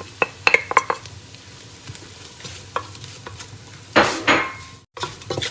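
Onions and ground spices sizzling in hot oil in a cooking pot, with a spoon clicking and scraping against the pot as they are stirred; two louder scrapes come about four seconds in.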